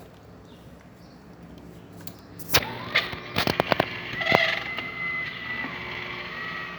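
DeLonghi Perfecta superautomatic espresso machine at the end of a shot: a low hum, then a quick series of sharp clicks and clunks from its internal mechanism about two and a half seconds in, followed by a steady high motor whine.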